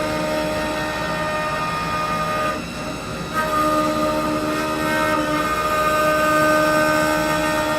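Lathe running, a steady machine whine with several tones at once over a noisy hum; it drops briefly about two and a half seconds in, then comes back a little louder.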